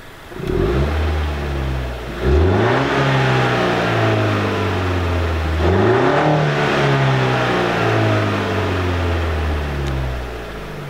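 2017 Honda Civic Si's 1.5-litre turbocharged four-cylinder engine and exhaust revving. The note climbs sharply three times, about half a second in, two seconds in and near six seconds, and eases back down slowly between.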